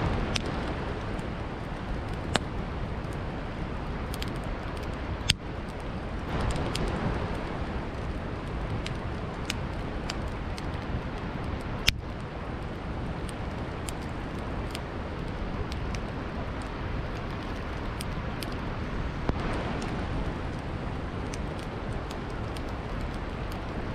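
Campfire crackling, with sharp pops at irregular intervals, a few of them loud, over the steady rush of a gently flowing river.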